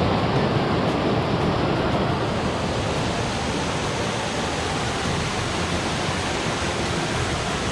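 Rushing water, a steady even noise with no breaks or changes.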